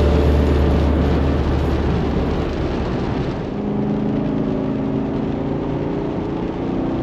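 Chevrolet Camaro engine running under way, heard from inside the cabin, with road and tyre noise on a wet surface. A heavy low rumble in the first second gives way to a steadier drone with a few level tones from about three and a half seconds in.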